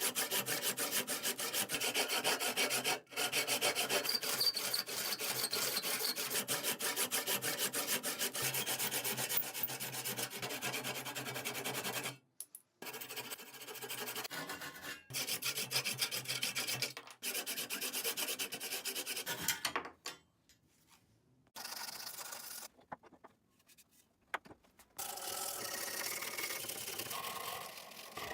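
Oak axe handle being worked by hand with a rasp or sandpaper: fast, steady scraping strokes of abrasive on wood. The scraping breaks off abruptly into silence several times in the second half.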